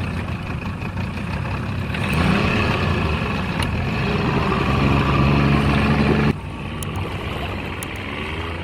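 A vehicle engine running steadily with a heavy low rumble, then dropping sharply in level about six and a half seconds in.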